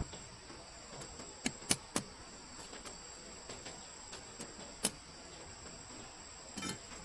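A few sharp wooden snaps and pops over a steady faint hiss: three close together about a second and a half in, one more near the middle, and a short rattle of small cracks near the end.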